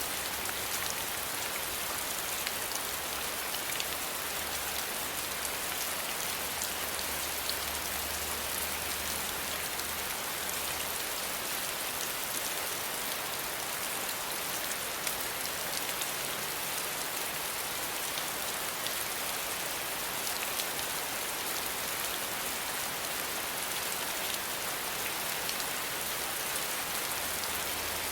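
Steady rain falling, a dense even hiss with fine scattered drop ticks and no thunder.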